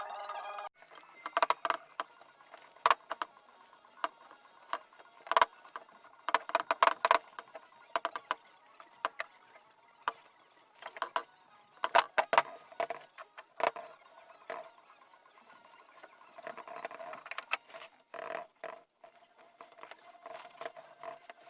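Irregular metallic clinks and knocks, some sharp and loud, scattered unevenly throughout, as steel parts are handled and struck.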